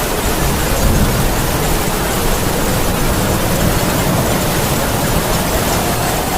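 Heavy rain falling steadily, with a howling wind whose faint wavering whistle rises near the end, over a low rumble.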